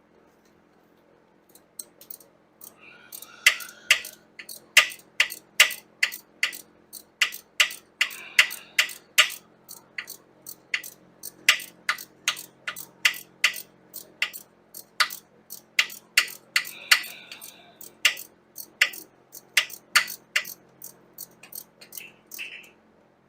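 Ratchet wrench clicking as it is worked, a steady run of sharp clicks at about two a second.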